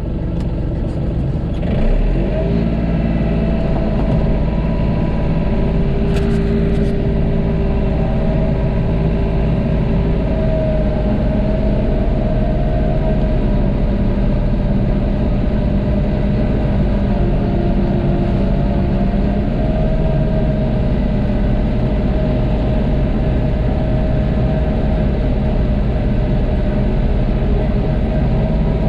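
John Deere tractor engine running steadily under load while plowing snow, heard from inside the cab, with a wavering whine over the engine hum. The engine's level steps up about two seconds in.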